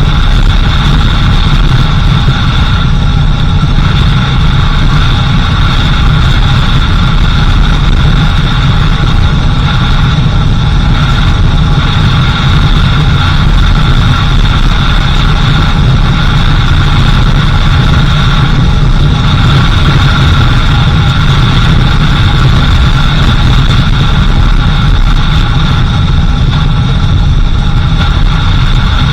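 Steady, loud engine and road noise of a 4x4 vehicle driving along a dirt road.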